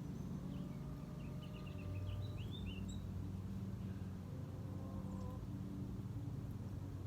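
Small birds chirping in a quick run of short notes, over a steady low hum like a distant engine.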